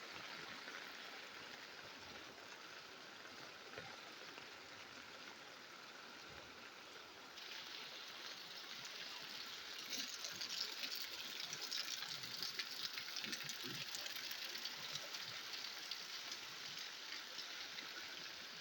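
Rain falling steadily: an even hiss that gets louder about seven seconds in and again around ten seconds, when sharp drop hits come in closer.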